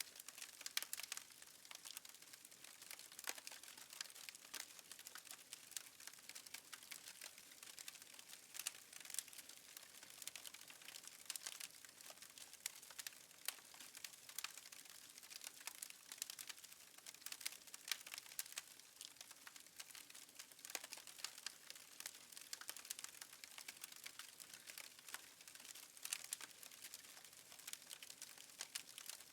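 Fireplace fire crackling faintly, with many small irregular snaps and pops over a soft hiss.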